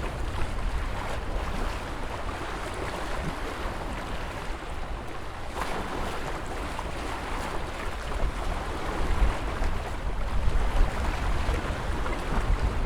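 Ocean waves washing continuously with a steady rush and a deep rumble underneath, growing somewhat louder in the last few seconds.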